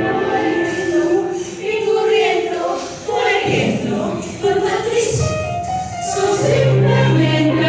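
A group of voices singing a musical-theatre number together over instrumental backing, with long held notes.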